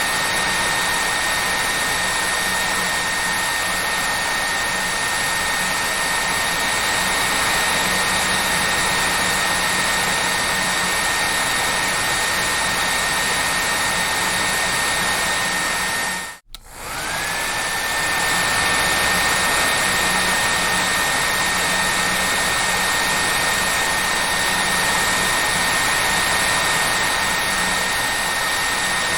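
Hair dryer running steadily, a loud even rush of air with a high motor whine. About two-thirds of the way through it cuts out for a moment and comes back, the whine rising back up to pitch.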